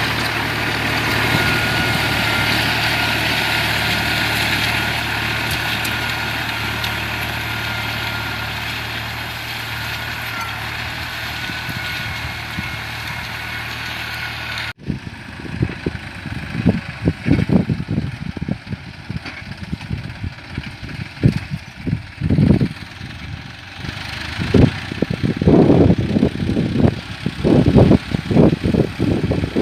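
New Holland 49 hp, 2700 cc tractor engine running steadily with a thin whine. About halfway through, the sound cuts off abruptly and gives way to irregular low rumbles and thumps.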